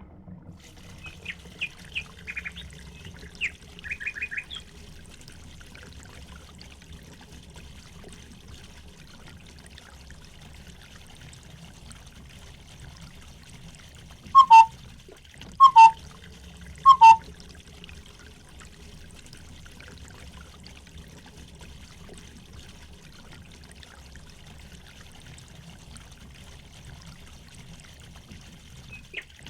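Steady trickle of running water with small birds chirping in quick bursts near the start. Midway, a bird gives three loud calls about a second and a half apart.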